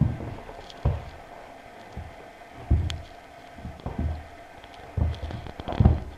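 Boston terrier puppy pouncing at a laser dot on carpet. Its paws hit the floor in a series of dull thumps about once a second, with a single sharp click near three seconds in.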